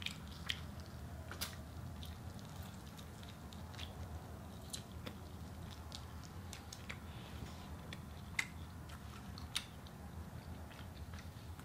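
Close-miked chewing of sauced chicken wings, with scattered small wet clicks and smacks from mouths and fingers over a faint steady low hum.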